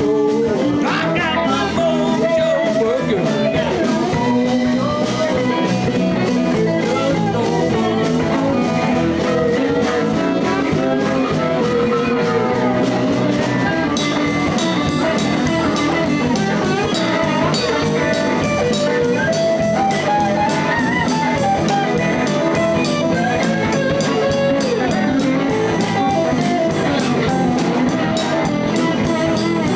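A live blues band playing, with guitar lines over bass and a steady drum beat.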